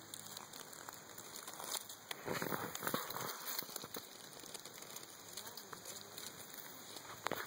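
Dry leaf litter rustling and crackling in faint, irregular ticks, busiest about two to three seconds in.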